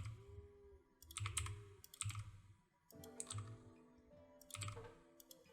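Computer keyboard keys clicking in short irregular clusters, over faint background music with held notes.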